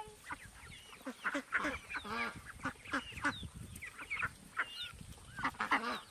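Birds calling, a steady string of short, overlapping calls.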